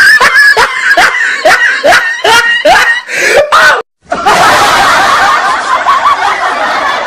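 Laughter sound effects. First a single squeaky laugh in quick rising bursts, about two to three a second, which cuts off just before four seconds in. Then many voices laughing together.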